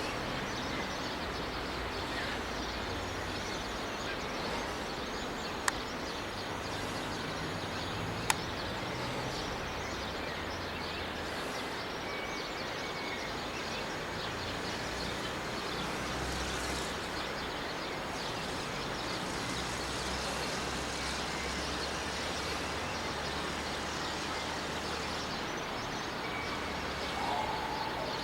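Morning birdsong, many birds chirping at once, over a low steady rumble of distant traffic. Two sharp clicks stand out, about six and eight seconds in.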